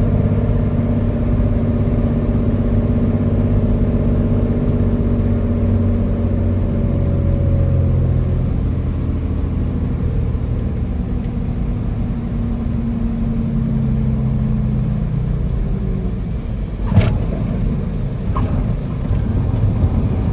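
Cessna 206 Stationair's piston engine running steadily, its pitch slowly sinking as power comes off. A sharp thump about 17 seconds in, and a lighter one a second and a half later.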